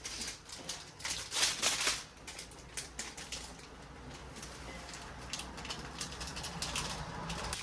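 Plastic instant-noodle packaging being handled and opened, crinkling and crackling in quick clusters of clicks, loudest about a second in and again near the end.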